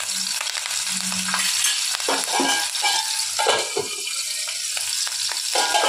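Chopped green chillies sizzling steadily in hot oil in a kadai, with a few short knocks and clinks of a steel lid partway through.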